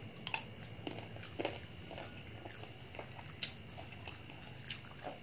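Biting into and chewing slices of raw green mango: irregular crisp crunches, the loudest just after the start and two more strong ones about a second and three seconds later.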